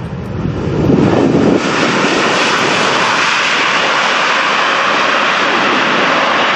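Jet airliner's engines passing close, loud. The sound swells over the first second and a half, then holds as a steady rushing roar.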